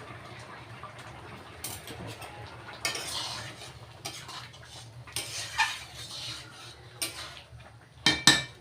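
Metal spoon stirring and scraping through a pot of dalia khichuri, with a few scraping strokes and then two sharp metal-on-metal knocks near the end.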